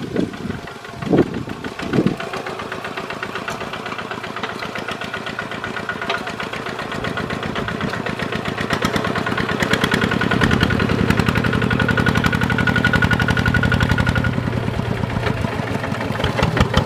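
Kubota ZT140 single-cylinder diesel engine of a walking tractor running with a rapid, knocking firing beat, building louder from about a third of the way in. There are a few low thuds in the first couple of seconds.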